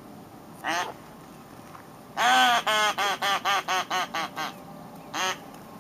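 Duck call blown in mallard-hen quacks: a single quack, then a descending run of about nine quacks that get shorter and quieter, and one more single quack.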